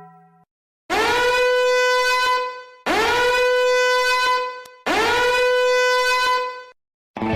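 Three identical horn blasts, each about two seconds long. Each one scoops quickly up into a steady, buzzy held note, then stops, with short silences between them, like an edited-in horn sound effect.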